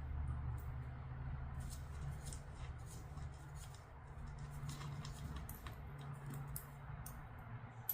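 Canvas fabric being handled over a scooter seat: scattered crisp rustles and small clicks over a steady low hum.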